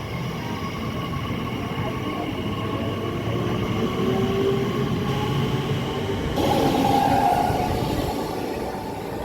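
Elizabeth line Class 345 train running on the track as it comes into a station, a steady rumble with a faint motor whine. About six seconds in, a louder hiss and a higher squeal join in.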